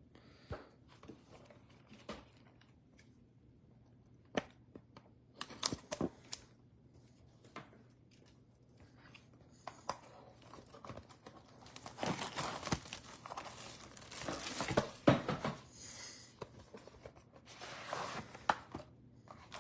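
Plastic wrapping crinkling and tearing as a sealed Panini Origins box of football cards is opened. A few scattered clicks and taps come first, then denser rustling and tearing from a little past halfway.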